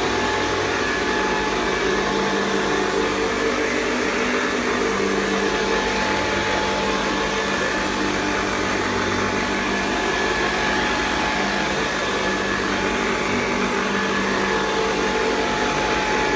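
A 1969 Hoover Convertible Model 1070 upright vacuum cleaner running steadily, with a constant whine over its airflow noise.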